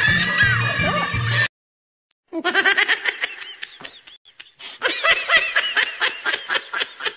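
Background music cuts off after about a second and a half. After a short silence comes rapid, high-pitched laughter in two bouts, with a brief lull between them.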